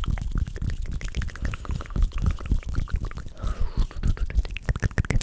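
Close-miked wet, sticky ASMR squishing: a quick, dense run of small clicks and squelches.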